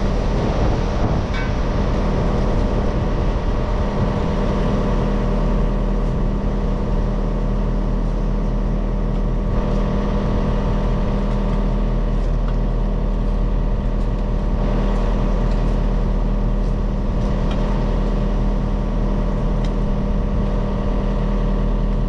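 Diesel engine of a piece of digging equipment running steadily at constant speed.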